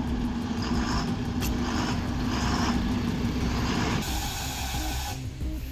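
Long 16-wheel truck's diesel engine running steadily. About four seconds in, the engine note cuts out as the engine stops, and a second-long hiss of air follows, as from the air brakes.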